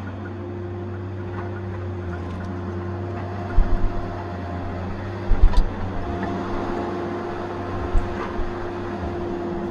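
Tigercat 870C feller buncher's diesel engine running steadily, with a few short low thumps: three in quick succession about a third of the way in, a louder cluster just past the middle, and one more near the end.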